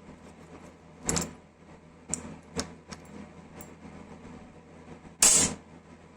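Small tool parts being handled: a few separate clicks and knocks, with one louder, longer clatter about five seconds in, over a low steady hum.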